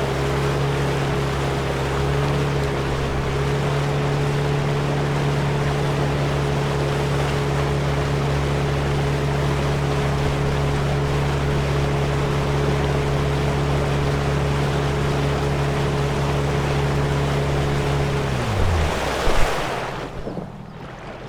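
Motorboat engine running at a steady speed over the rush of water. Near the end its note falls as it winds down and stops, leaving the quieter wash of water.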